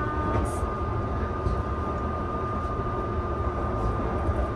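Interior running noise of a Kintetsu Vista Car express train in motion: a steady low rumble with a thin, steady whine above it.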